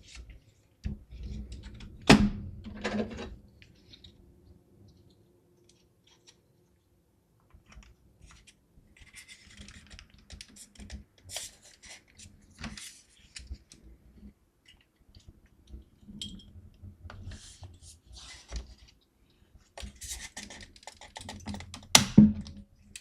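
Hands working on a small PC case and its parts: scattered light clicks, scrapes and rattles of metal and plastic, with a sharp knock about two seconds in and another near the end.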